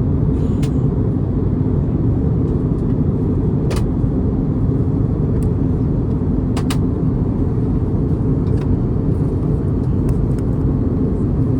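Steady low cabin rumble of an Airbus A321neo airliner in flight, heard from a passenger seat, with a few faint clicks.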